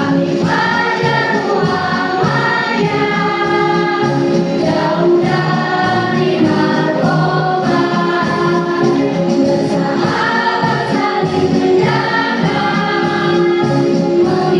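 School choir singing in harmony over musical accompaniment with a steady beat.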